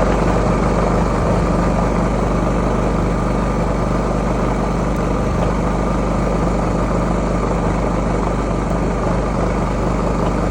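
WEN 4800-watt inverter generator's single-cylinder four-stroke engine running at a steady speed, a loud, even drone.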